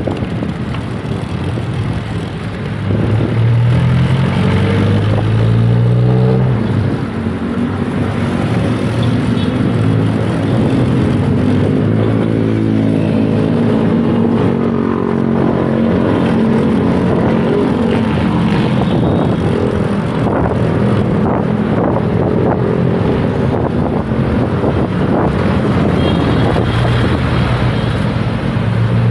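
Road traffic heard from a bicycle: motor vehicles passing, one engine rising in pitch as it accelerates about three seconds in, over a steady rumble of wind and road noise.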